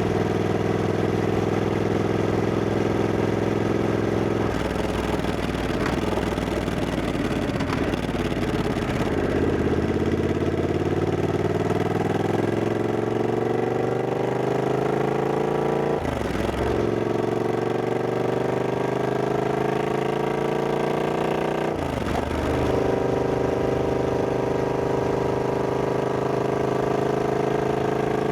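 Triumph Scrambler 1200X's 1200 cc parallel-twin engine under way, its note climbing as the bike accelerates. Two upshifts about halfway through and again near three quarters through, each a short dip in the revs before they climb again.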